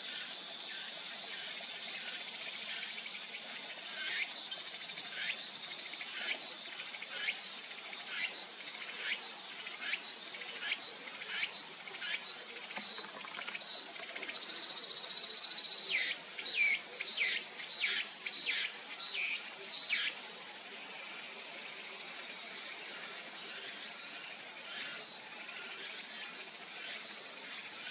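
A bird calling a series of sharp, falling notes, about one a second at first, then quicker and louder in a short run before stopping about two-thirds of the way through, over a steady high-pitched insect drone.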